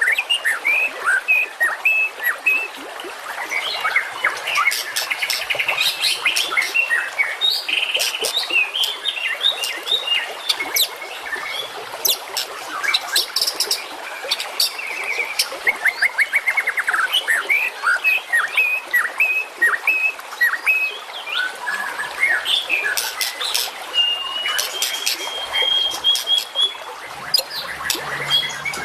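Songbird song from a masteran bird-training recording: a dense run of rapid sharp chirps, click-like notes and trills, with a long held whistle that steps up slightly in pitch near the end.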